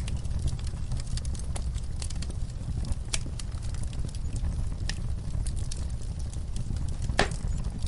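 Wood fire crackling in a fireplace: irregular sharp pops and snaps over a steady low rumble of burning, with one louder pop about seven seconds in.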